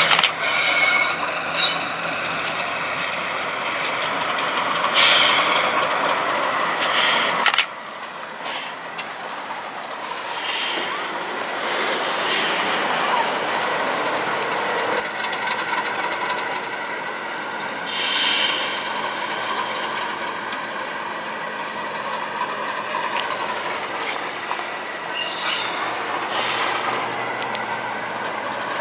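Diesel-hauled train on the move with a Class 37 locomotive, wheels running on the rails with scattered clicks and some squeal. The sound is loud at first and drops off suddenly about seven and a half seconds in, then carries on more quietly.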